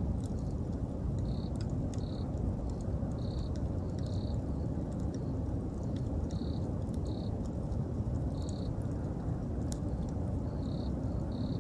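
Wood bonfire crackling, with scattered sharp pops over a steady low rumble, while an autumn insect, a cricket, gives short high chirps about once a second, often in pairs.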